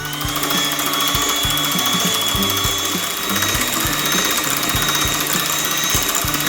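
Electric mixer motor starting up and running steadily, with a whine that climbs slightly as it comes up to speed in the first second and then holds.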